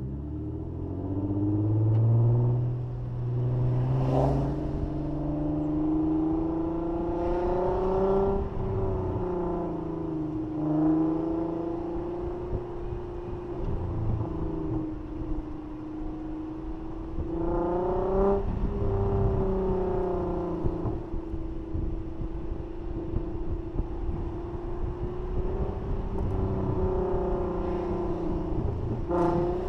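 Car engine running as the car drives, heard from outside the car. Its note rises as it accelerates, drops back a couple of times, then holds steady.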